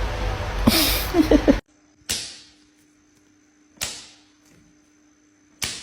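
Three sharp swishing strikes, about a second and a half to two seconds apart, each fading away quickly over a faint steady hum. Before them, a louder noisy stretch cuts off abruptly.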